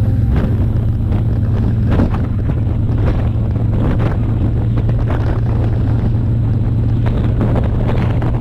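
Yamaha YXZ1000R side-by-side's three-cylinder engine running at a steady drone while driving, with wind buffeting the microphone and occasional knocks and rattles from the rough ride.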